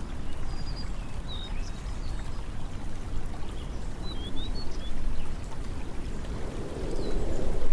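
Steady rush of moving water, with short high bird chirps over it in the first half; the water grows louder near the end.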